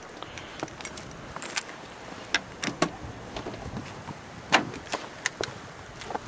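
A set of keys jangling, heard as scattered light metallic clicks, with the sharpest click about four and a half seconds in.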